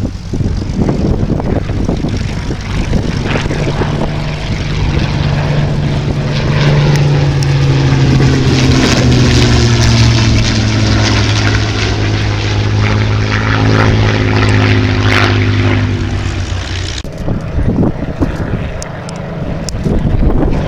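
Silver Spitfire's Rolls-Royce Merlin V12 engine in a flypast. The propeller-engine note swells to its loudest in the middle, sliding in pitch as it passes, then falls away quickly a few seconds before the end.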